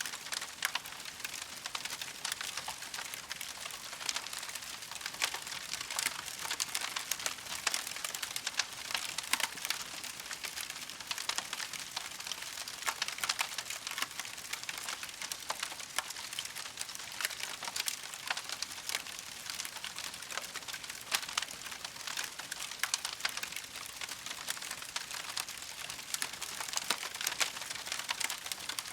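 Campfire crackling steadily, a dense run of small sharp pops and snaps over a soft hiss.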